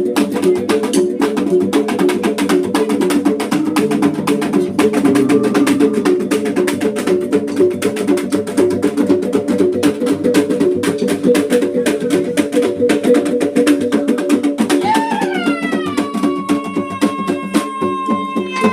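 Sumbanese gong and drum ensemble playing a fast, repeating interlocking pattern of pitched gong strokes over rapid drumbeats. A long, high shouted call joins near the end.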